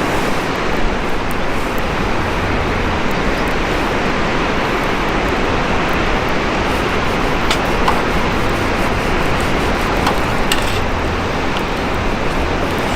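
Wood campfire burning with a steady rushing noise and a few sharp crackles and pops.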